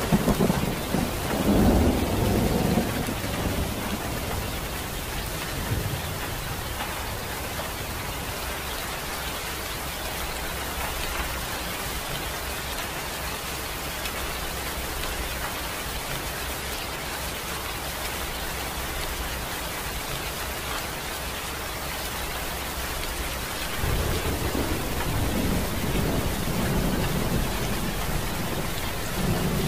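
Steady rain hissing, with low rumbles of thunder in the first few seconds and again near the end.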